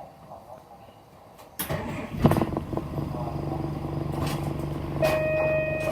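City bus engine heard from inside the bus. Quiet for the first second and a half, then the engine comes up suddenly and runs with a steady hum as the bus pulls away. Near the end a steady beep sounds for about a second.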